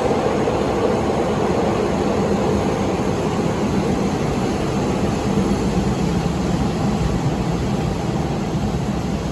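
Steady, loud rumble and rushing noise of a moving train.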